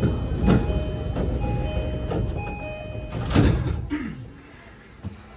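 JR East E233 series 5000 train's door chime repeating while the passenger doors slide shut, ending with the doors closing with a thud about three and a half seconds in.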